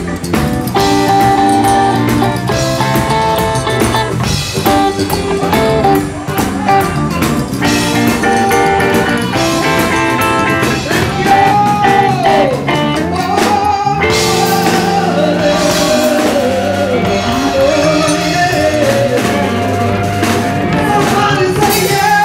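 Blues song played by a band with guitar and drums, a woman singing over it in the second half.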